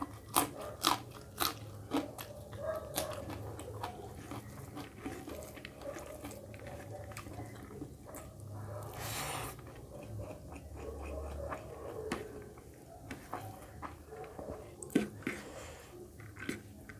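Close-up chewing and biting of mutton curry with rice: wet mouth sounds with sharp crunches and clicks, busiest at the start and again near the end, and a short hissing slurp-like sound about nine seconds in.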